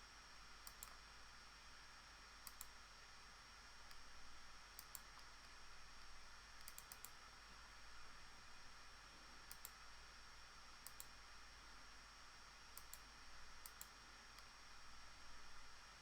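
Computer mouse clicking quietly, a press-and-release double click every second or two, as anchor points are placed with the pen tool. A faint steady high whine and low hum sit underneath.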